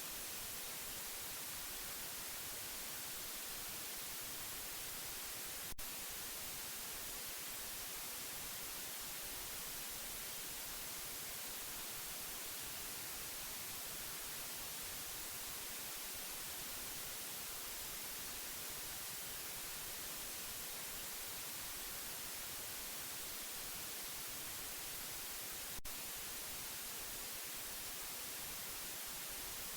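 Steady white noise: an even hiss, brightest in the treble. Two brief clicks sound about twenty seconds apart.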